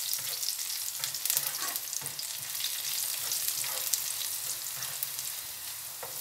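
Chopped garlic, cumin seeds and curry leaves sizzling steadily in hot oil in a nonstick pan, stirred with a spatula that scrapes the pan now and then. The garlic is being fried till light brown.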